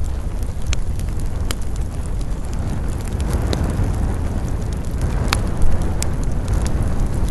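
Wood campfire crackling, with a handful of sharp pops; the loudest comes about five seconds in. Under it runs a steady low rumble.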